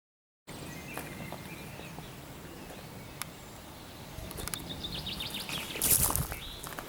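Outdoor ambience with birds chirping over a steady background hiss. From about four seconds in come a run of short crunching clicks and rustles, loudest near the end.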